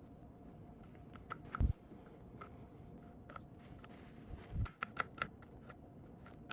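Scattered small clicks and taps of hand work on hardware, with two dull thumps, about a second and a half in and again near four and a half seconds.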